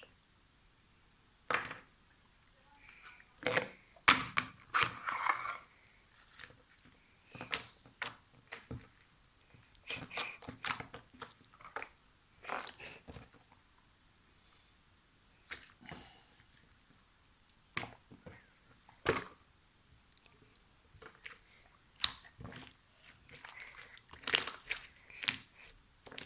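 Slime being worked by hand, giving irregular bursts of wet clicks, pops and squishes with short pauses between.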